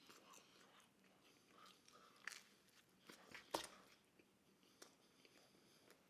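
A person quietly chewing and biting pizza, with a few sharp wet mouth clicks, the loudest about three and a half seconds in.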